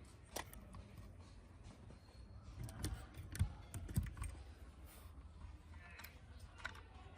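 Scattered light clicks and taps from small parts being handled and worked on a bench, with a cluster of louder knocks about three to four seconds in.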